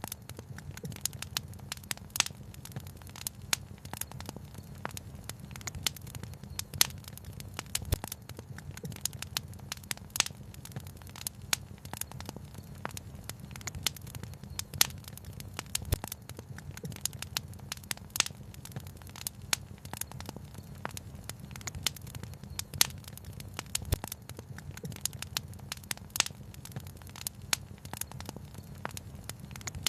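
Wood fire crackling, with dense irregular snaps and an occasional louder pop, over a steady low rumble.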